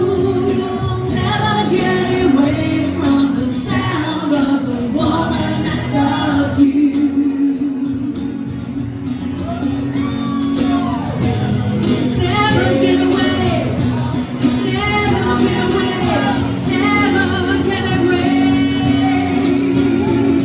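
A live band playing a song, with a singer's voice over the instruments.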